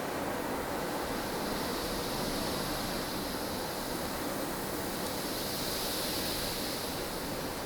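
Strong wind of a snowstorm blowing steadily, an even rushing noise with a high hiss that swells and eases in gusts.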